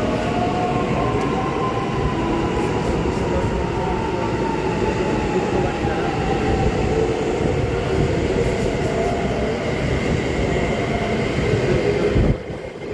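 Electric commuter train moving slowly alongside a station platform, with rumble from wheels on rail and a motor whine that falls slowly in pitch as the train slows. Near the end the sound cuts suddenly to a quieter rumble.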